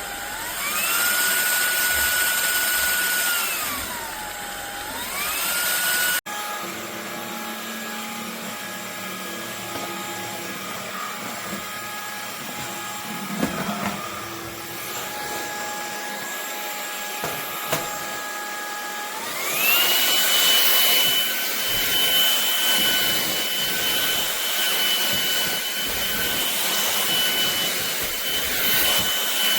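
MONSGA cordless stick vacuum's brushless motor running and changing speed. Its whine rises in pitch about a second in, falls about four seconds in and rises again. After a sudden cut it runs lower and steadier, then spins up again near twenty seconds and holds the high whine to the end.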